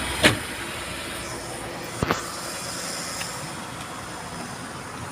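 Car door sounds: a sharp loud click about a quarter second in, then a quick double knock about two seconds in, as a door is opened and shut. Steady traffic noise underneath.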